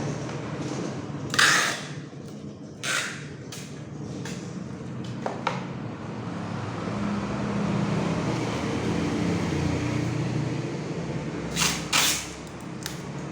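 A steady low engine hum, with four short hissing or scraping bursts: one about a second in, another soon after, and two close together near the end.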